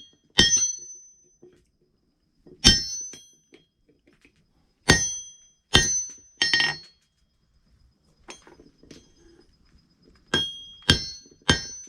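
Hand hammer striking hot steel on a small stump anvil, about eight separate blows with pauses between them, each leaving a bright ringing tone; the blows come quicker near the end. The smith is flattening a spot on the punch.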